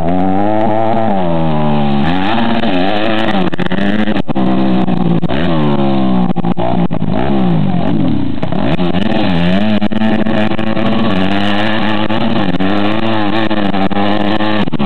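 Four-stroke motorcycle engine revving up and down over and over, its pitch rising and falling every second or two. The rider is holding it in gear without shifting up.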